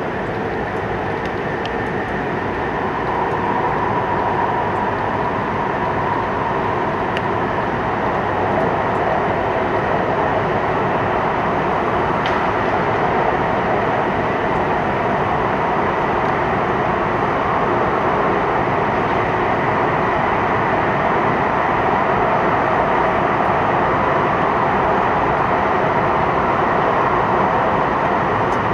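Hokkaido Shinkansen train running through a tunnel, heard from inside the passenger car: a steady rush of wheels on rail and air in the tunnel. It grows a little louder a few seconds in as the train accelerates toward 160 km/h.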